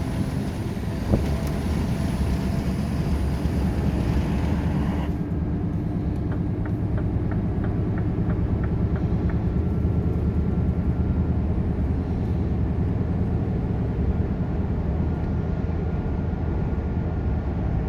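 Scania R520 truck's V8 diesel engine running with a steady low drone. About five seconds in the high hiss drops away suddenly, and a run of light ticks, about three a second, follows for a few seconds.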